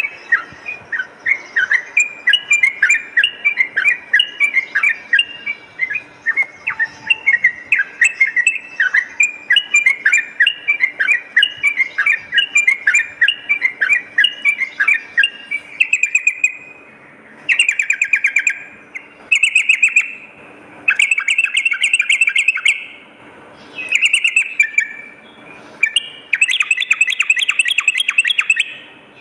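Yellow-vented bulbul (trucukan) singing loudly: a long run of quick, bubbling repeated notes, then, about halfway through, short bursts of rapid chattering trills separated by brief pauses.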